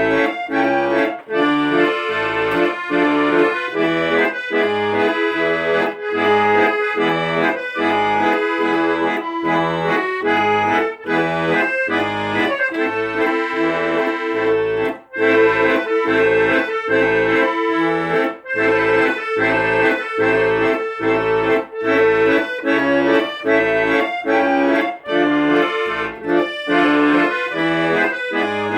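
Accordion playing an instrumental tune: sustained reed chords and melody over a regular pulsing bass, about two bass notes a second.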